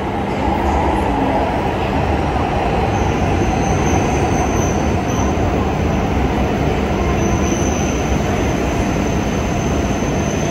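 Coupled E6- and E5-series Shinkansen train pulling into the platform at low speed: a steady rumble of wheels and running gear. About three seconds in, a thin high squeal starts and comes and goes above it.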